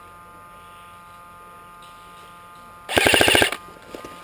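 Airsoft gun firing one short full-auto burst about three seconds in: a rapid, evenly spaced rattle of shots, about twenty a second, lasting well under a second.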